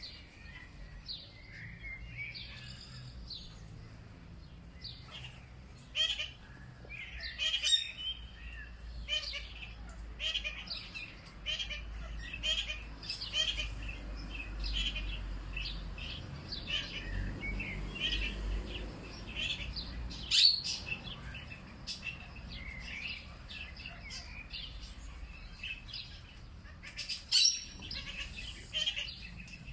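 Several birds chirping and calling in dense, overlapping short notes, a few louder calls standing out. A low rumble sits underneath through the middle.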